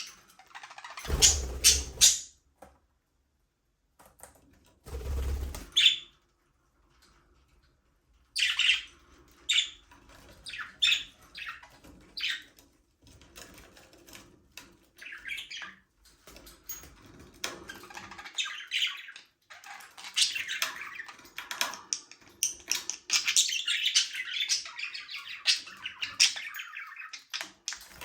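Budgerigars chirping and chattering in short high calls, which thicken into a dense flock chatter about twenty seconds in. Early on there are two short louder bursts with a low thud in them, with quiet gaps after each.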